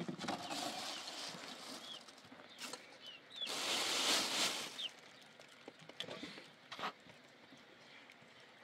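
Small birds chirping in short calls, with a loud rushing noise lasting just over a second about three and a half seconds in, and a few sharp knocks.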